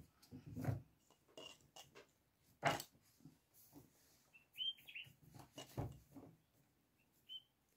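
Faint short chirps from small birds, a few of them near the middle and near the end, among a couple of sharp knocks and light clicks.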